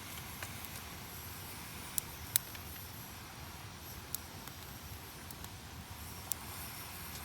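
Wood campfire crackling: scattered sharp pops every second or so, the loudest pair about two seconds in, over a steady low noise, as the fire begins to catch.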